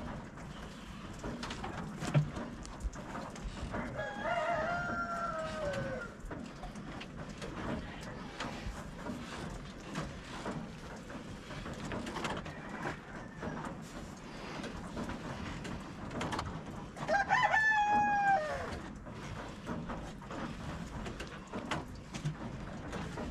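A rooster crowing twice, about thirteen seconds apart. Each crow lasts about two seconds and falls in pitch at the end, with scattered faint clicks between.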